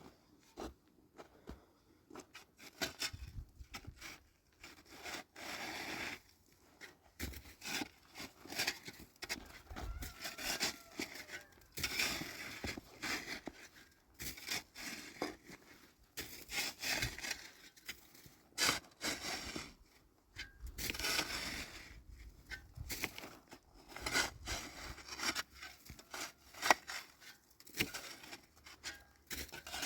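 Irregular rustling and scraping from hands-on work, coming as a long series of short, uneven bursts.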